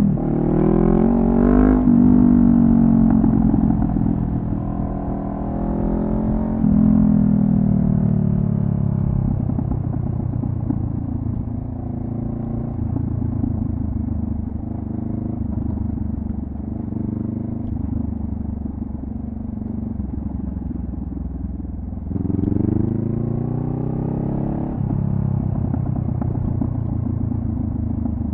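2014 Honda CB500F's parallel-twin engine running through a Delkevic carbon-fibre slip-on exhaust while riding. The revs rise and drop twice in the first couple of seconds, then the note eases down into a steady cruise. It pulls up again about two-thirds of the way in before settling.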